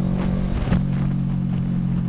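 CFMoto NK400's parallel-twin engine droning at a steady cruising speed, with wind buffeting the microphone.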